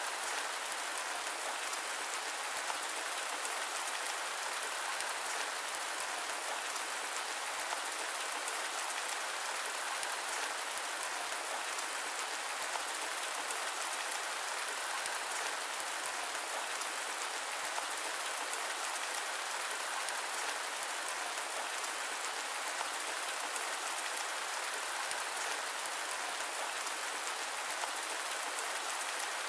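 Steady rain: an even hiss of many small drops with a fine patter, no deep rumble and no thunder.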